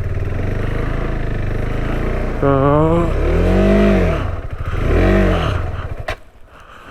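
Motorcycle engine running and revved up and down twice, the rider trying to free the stuck bike, then the engine sound falls away suddenly with a click near the end.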